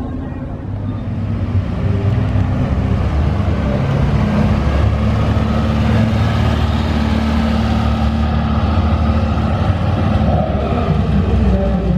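Car engine running as a car pulls out and drives by, growing louder over the first two seconds and then holding steady, with a deep low hum.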